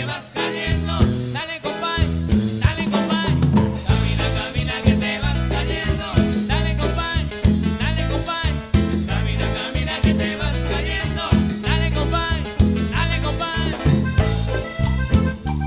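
A band playing an upbeat song with a drum kit keeping a steady beat over a bass line.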